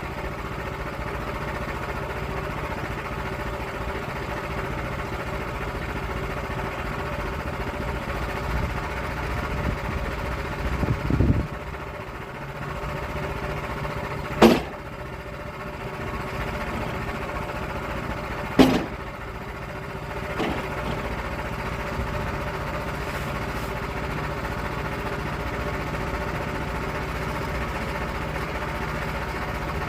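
Sawmill engine running steadily throughout, with a brief louder rumble about eleven seconds in. Two sharp knocks come about four seconds apart around the middle.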